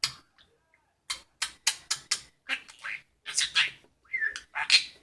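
Budgerigar chattering in a run of quick, raspy chirps and squawks, typical of a talking budgie's babble, after a short pause about the first second.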